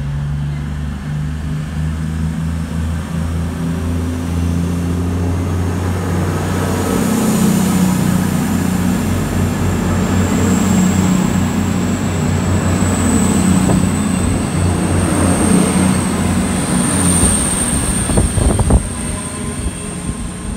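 A CrossCountry Voyager diesel multiple unit moves past along the platform. Its underfloor diesel engines give a low, steady hum at first, then the wheels and coaches rumble by. Through the second half a high, thin squeal rises slowly in pitch.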